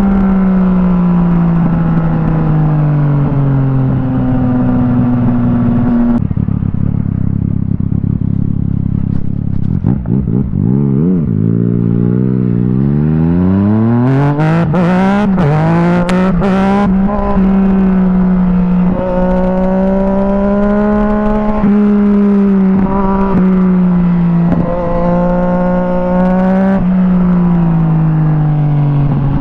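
Yamaha MT-09 SP's three-cylinder engine through an Akrapovic exhaust, heard from the moving bike: it slows with the pitch falling, then accelerates hard with the pitch climbing, broken by several quick gear changes. After that it cruises with the revs rising and falling, and eases off near the end.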